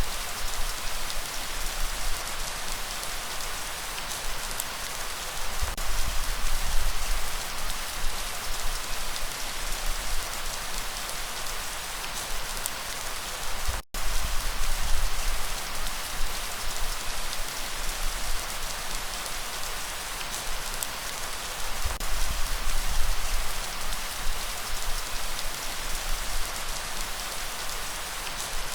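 Steady heavy rain hissing, over a low rumble that swells now and then. The sound drops out for an instant about halfway through.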